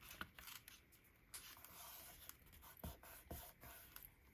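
Faint rustling of paper strips being handled and pressed down by hand, with a couple of soft taps about three seconds in.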